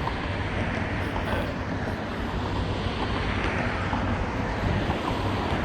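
Diesel locomotive engines running, a steady low rumble.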